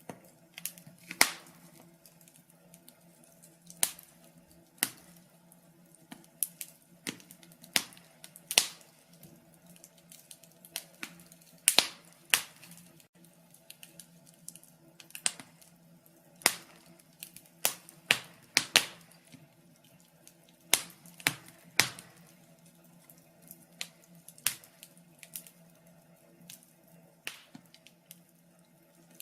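Fire burning in a fireplace, crackling with irregular sharp pops, a few much louder than the rest, over a faint steady hum.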